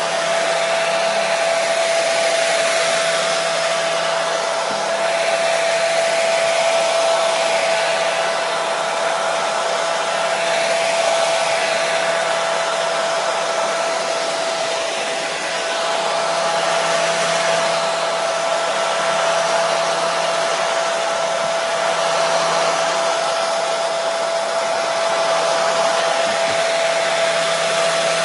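Hair dryer running steadily, a constant rush of air with a motor whine held on one pitch, played as continuous white noise to soothe a colicky baby to sleep.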